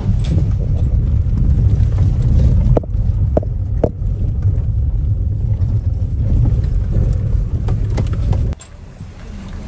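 Loud low rumble with a few faint clicks. It starts abruptly and drops off sharply about eight and a half seconds in.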